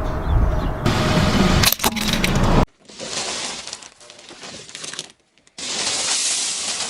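Car tyre rolling over and crushing brittle objects: dense crackling with sharp cracks and snaps. It breaks off abruptly about two and a half seconds in, giving way to a thinner, hissy crackle with a brief gap near the end.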